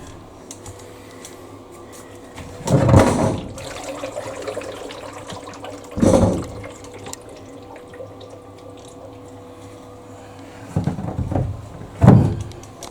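Water splashing in several short bursts, over a faint steady hum.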